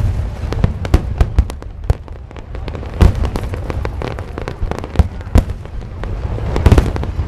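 Aerial fireworks bursting: many sharp bangs and cracks in quick, irregular succession over a low rumble, with a few heavier booms about three seconds in, about five seconds in and near the end.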